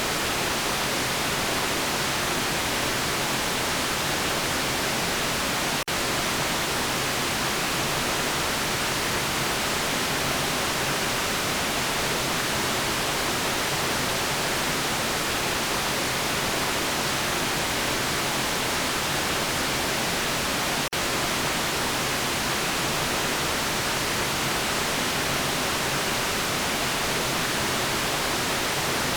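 Steady, even white noise, a constant hiss across the whole range of pitch, broken by two momentary dropouts about 6 seconds and 21 seconds in.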